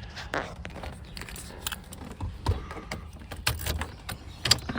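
A series of scattered clicks and knocks, a few of them sharp, over a faint low rumble.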